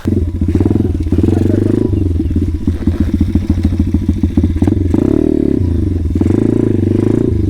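Small motorcycle engine running close by with a fast, even pulse, coming in abruptly at the start; about five seconds in it revs up and drops back.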